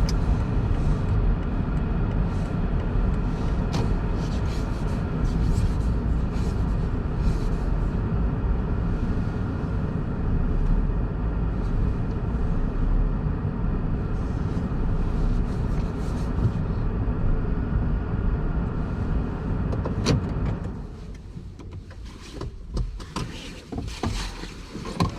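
Car cabin noise: steady engine and road rumble of a car moving slowly into a parking spot. About 20 seconds in there is a sharp click and the rumble stops, followed by a few light knocks and clicks.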